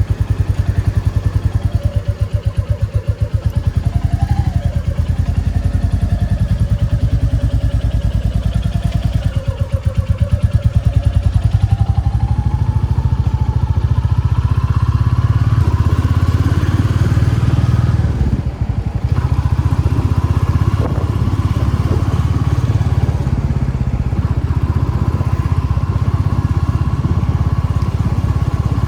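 Royal Enfield Classic 350 single-cylinder engine running under way, with its low, even thumping beat. The engine note climbs as the bike picks up speed through the first half, then dips briefly about eighteen seconds in, like a gear change, before running on steadily.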